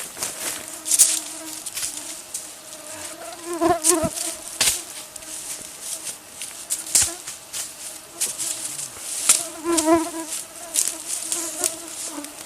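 A flying insect buzzing close by, its wavering drone swelling and fading as it circles, loudest about four seconds in and again near ten seconds. Scattered rustles and sharp clicks sound alongside it.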